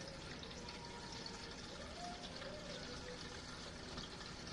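Faint, steady running water, as from water filling or draining in a washing machine tub.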